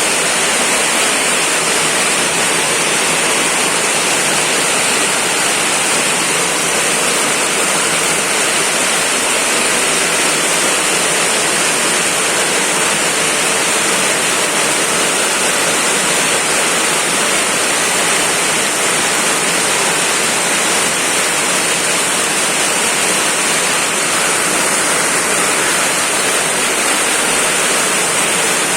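Heavy rain pouring down steadily, a dense, even hiss of water with no let-up.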